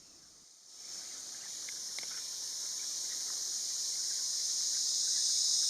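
Steady, high-pitched drone of a chorus of insects, growing gradually louder.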